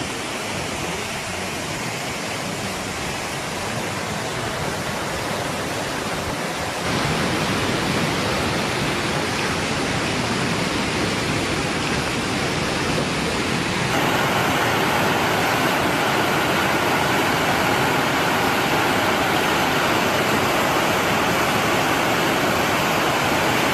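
Rushing floodwater: a steady, loud rush of water. It changes abruptly and grows louder about seven and fourteen seconds in.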